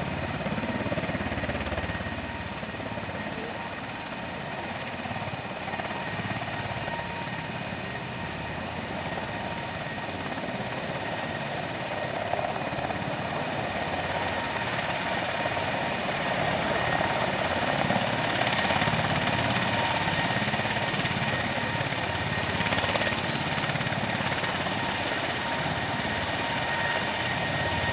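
Mi-26 heavy helicopter running, its twin turboshaft engines and rotor making a steady rushing noise with a high turbine whine, growing gradually louder.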